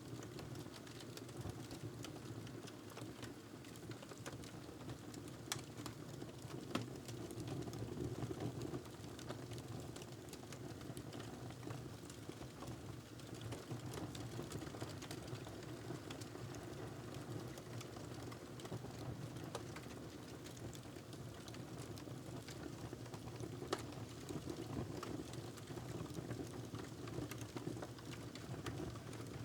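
Wood fire crackling in a fireplace: a steady low rush of burning with frequent small irregular snaps and pops, a few of them louder.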